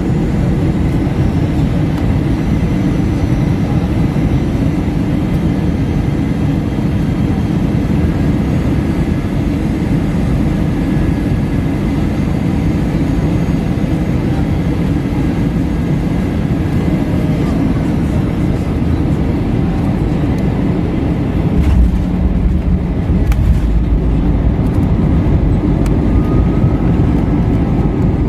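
Steady airliner cabin noise inside an Airbus A321, a low roar with faint steady whines. About 22 seconds in, a deeper rumble and a few knocks set in.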